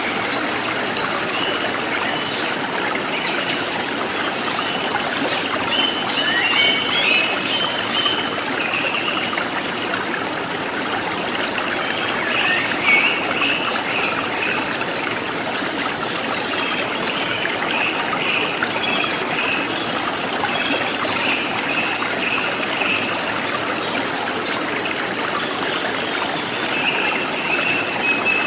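A forest stream trickling and burbling steadily, with wild birds calling over it: short high chirped phrases a few times and a steadier thread of warbling calls.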